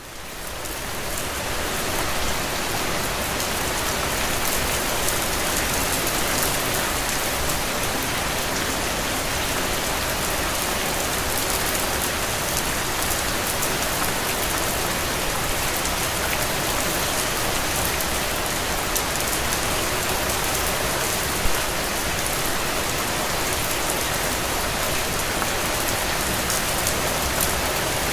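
Steady rain on a window, a dense even patter with fine individual drops, fading in over the first couple of seconds and then holding level. One drop taps slightly louder about two-thirds of the way through.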